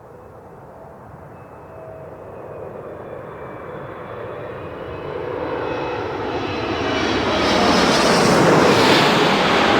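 Boeing 777 jet airliner's twin engines approaching on final, a roar with a thin high whine that grows steadily louder and peaks near the end as the aircraft passes close by.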